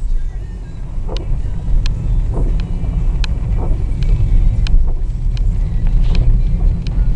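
Low, steady rumble of a car's engine and tyres heard from inside the moving car, with short sharp clicks scattered through it roughly every half second to second.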